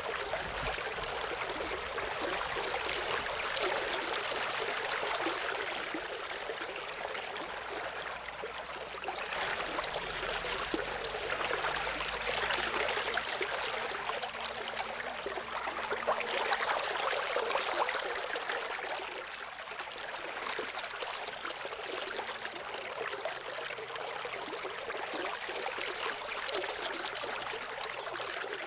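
Steady rushing noise like running water, swelling and easing several times, with a faint low drone underneath.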